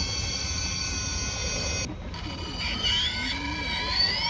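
Electric motor and gear whine of an RC rock crawler truck driving over rocks, several steady high tones, with the pitch rising toward the end as the motor speeds up.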